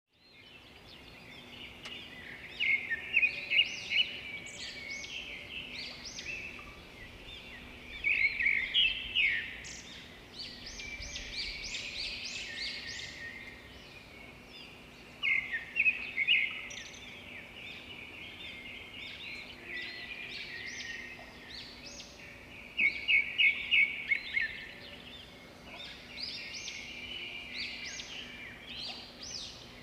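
Small birds chirping and singing: rapid runs of high, quick notes that come in louder bursts every few seconds, over a faint steady hum.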